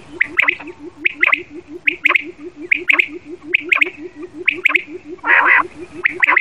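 Quail calling: short paired chirps repeated about every second, over a steady low pulsing about five times a second, with a louder rough burst of noise about five seconds in.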